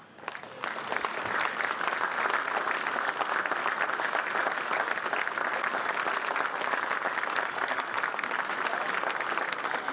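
Crowd applauding: clapping starts about half a second in and stays steady.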